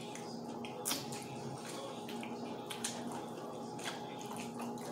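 People eating fried chicken close to the microphone: chewing with scattered short mouth clicks and smacks, the clearest about a second in.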